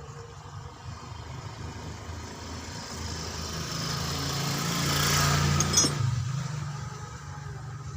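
A vehicle engine running, growing louder to a peak about five seconds in and then easing off.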